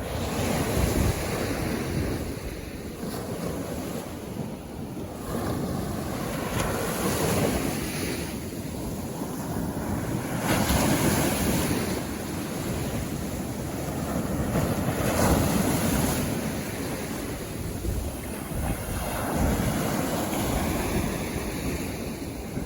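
Sea waves breaking on a beach and washing up the shore, the surf swelling and ebbing every few seconds, with wind buffeting the microphone.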